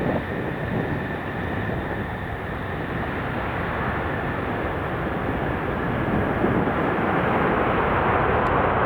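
Boeing 747 jet engines on approach: a steady rushing engine noise with a faint high whine early on, growing louder over the last few seconds as the jumbo jet nears.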